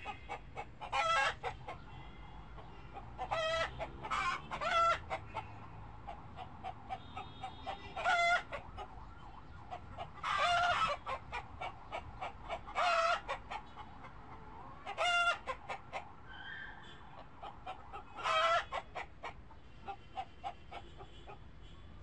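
A bird calling: loud, harsh calls of under a second each, repeated every two to three seconds, with softer short calls between them.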